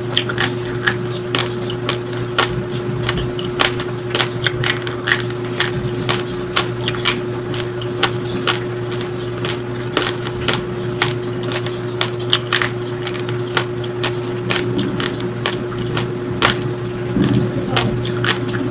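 Close-miked crunching of uncooked white rice grains being chewed: rapid, irregular crackles and snaps, over a steady low hum.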